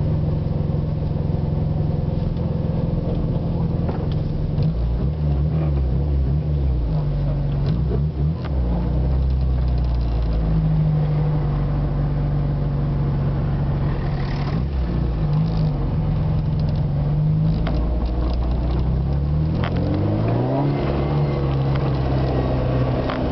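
Yugo 1.6's engine heard from inside the cabin, running at low speed in a steady note with brief rises and falls in pitch, then rising in pitch near the end as the car accelerates.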